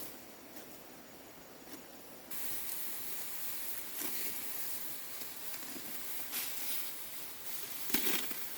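Rustling hiss of dry rice straw being handled in a harvested field, with a few crisp snaps; the hiss grows louder about two seconds in.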